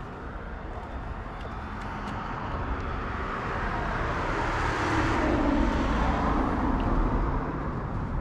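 A road vehicle passing by, its engine and tyre noise growing louder to a peak about five seconds in and then fading.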